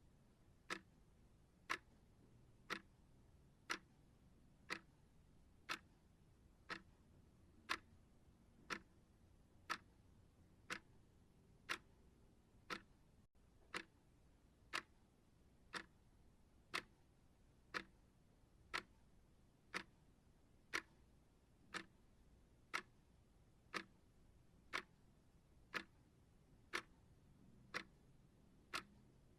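Steady clock ticking: one sharp, even tick about every second, over near silence.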